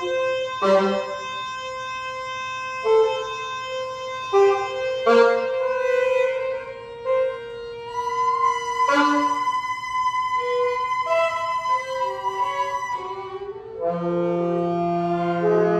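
Free-improvised avant-garde music for saxophones and violin: long held notes overlap in a dissonant texture, punctuated by several sharp accented attacks. A low sustained note enters near the end.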